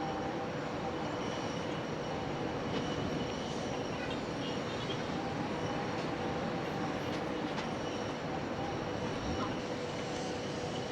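Steady mechanical drone with a constant hum running through it, holding even throughout.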